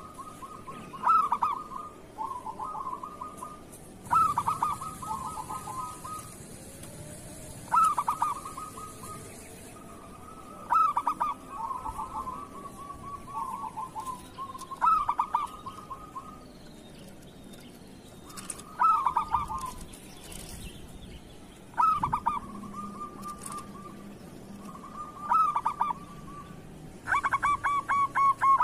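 Zebra doves (perkutut) cooing over and over, a phrase every two to four seconds. Each phrase opens with a loud, fast rattle of notes and trails off into softer coos, and phrases sometimes overlap.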